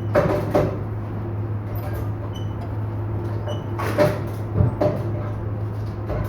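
Handful of sharp metallic knocks and clanks from tyre-changing work, over a steady low hum: two close together at the start and three more about four to five seconds in.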